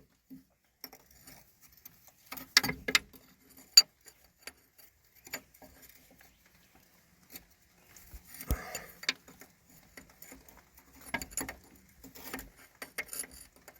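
Scattered, irregular taps and clicks: raindrops starting to fall on and around the backhoe, mixed with the occasional metal clink of a wrench working a tight hydraulic line fitting.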